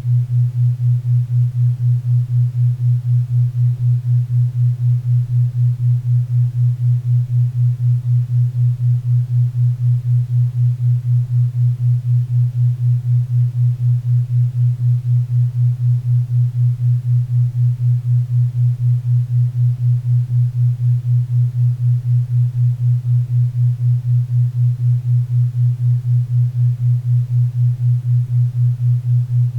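Low hum-like tone pulsing evenly about four times a second: a 4 Hz theta-wave entrainment beat, over a faint bed of pink and brown noise.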